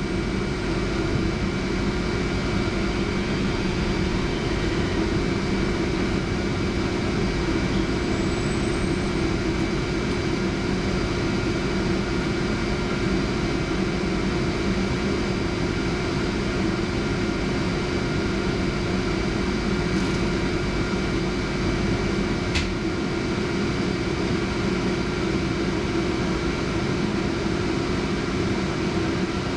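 Steady cabin noise inside a Centram low-floor tram: a low rumble with a constant hum and thin steady tones, and a couple of light clicks about two-thirds of the way through.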